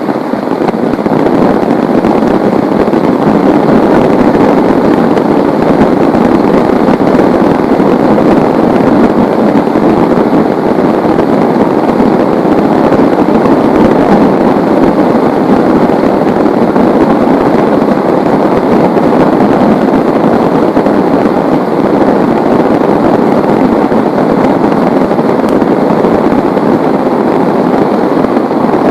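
Heavy rain falling, a loud, steady, dense hiss with no breaks.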